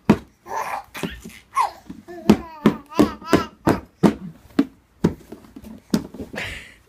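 A young child's wavering, babbling vocal sounds mixed with irregular knocks and bumps, about a dozen scattered through the stretch.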